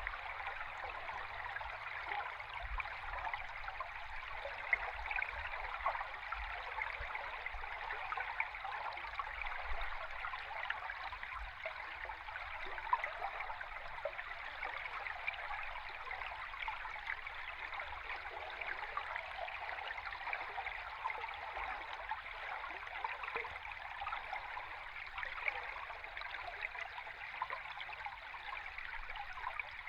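River water flowing, heard underwater: a steady rushing hiss full of tiny crackles and bubbles, over a faint low rumble.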